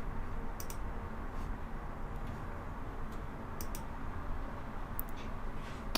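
Quiet room tone with a steady low hum and a few faint, short clicks, some in quick pairs, from a computer mouse.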